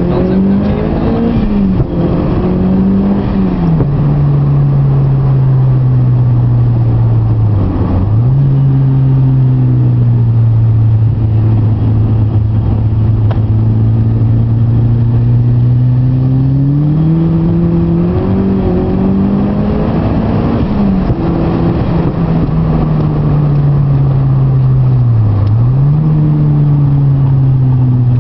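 Mitsubishi Lancer Evolution IV's turbocharged 2.0-litre four-cylinder engine running hard on a lap, heard from inside the cabin over tyre and road noise. Its note holds steady for long stretches and rises and falls, with quick sharp dips about eight seconds in and near the end.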